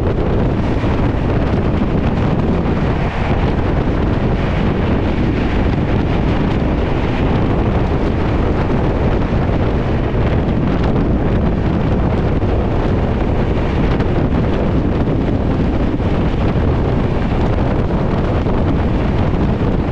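Wind buffeting the microphone over the steady rumble of the Howrah–Darbhanga Express's sleeper coach running at speed.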